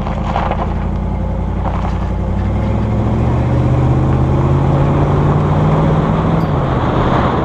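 A pickup truck's engine and road noise heard while driving. The engine note rises and grows louder a few seconds in as the truck accelerates, then holds steady, and the sound cuts off abruptly at the end.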